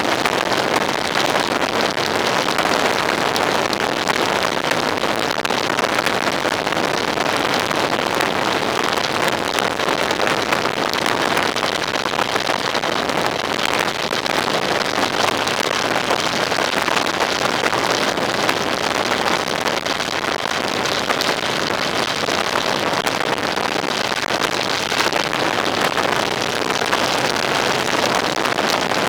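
A vehicle on the move: steady rushing wind and road noise over a faint low engine hum, unchanging throughout.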